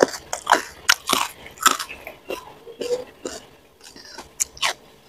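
A person chewing a mouthful of food close to the microphone, with irregular crunching clicks. The clicks come thick and fast for the first two seconds, then sparser.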